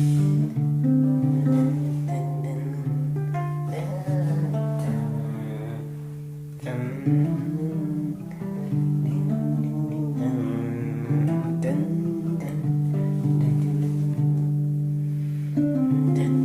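Music played on a guitar, with held notes over a steady low note.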